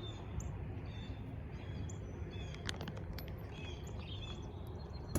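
Songbirds calling, which by ear are blue jays and a northern cardinal: repeated short chirps and down-slurred whistled notes over a steady low background rumble.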